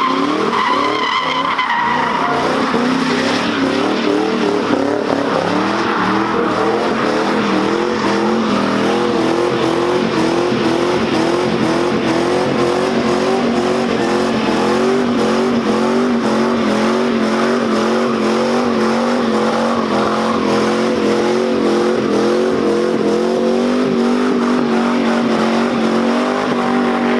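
A car drifting: its engine is held at high revs that waver slightly up and down, and its tires squeal and skid steadily.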